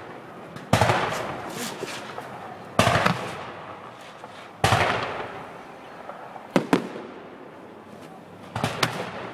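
Aerial firework shells bursting: a series of sharp bangs roughly every two seconds, each trailing off in a long rumbling echo, with a quick double bang in the second half and a short cluster of bangs near the end.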